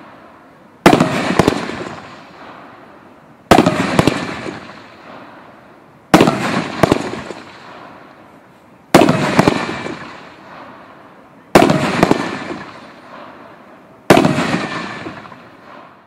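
GM483 Multicolor Peony aerial fireworks bursting: six loud booms at an even pace, about two and a half seconds apart, each dying away over a second or two.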